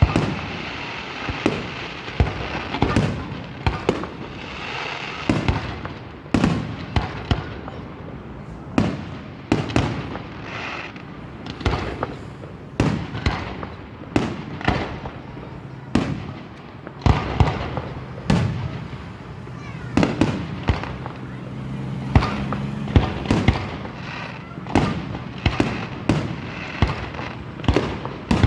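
Aerial fireworks bursting in quick, irregular succession, a constant run of bangs and crackles with no pause.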